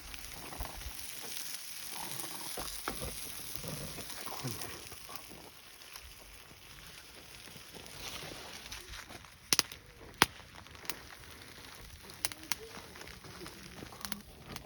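Campfire crackling with a steady hiss, then a few sharp pops from the burning wood in the second half, two of them loudest.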